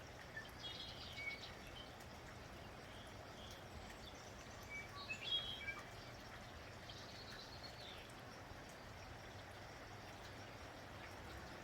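Steady rain falling as an even hiss, with small birds chirping over it in short scattered bursts of high calls, the busiest flurry about halfway through.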